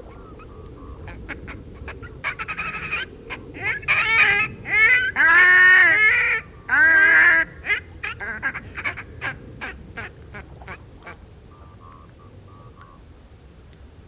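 Whooper swans calling: a string of short calls builds to a few loud, longer calls in the middle, then thins back out to short calls.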